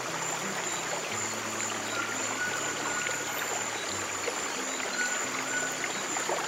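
Flowing stream water, with soft, slow low piano notes held and changing every second or so, and a thin steady high tone.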